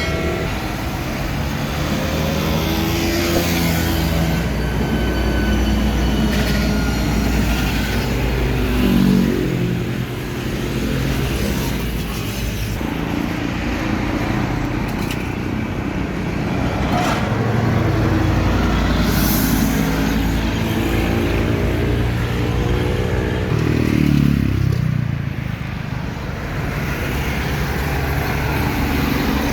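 Road traffic with trucks passing one after another, their engine notes rising and falling as each goes by. The loudest pass-bys come about a third of the way in and again near the end.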